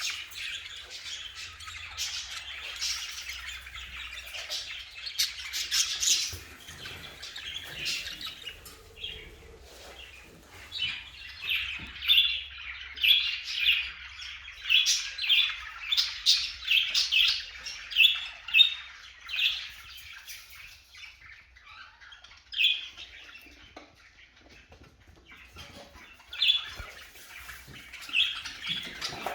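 Budgerigars chattering and chirping. A dense warble of many small calls, with a run of loud, sharp chirps in the middle and fewer, scattered calls near the end.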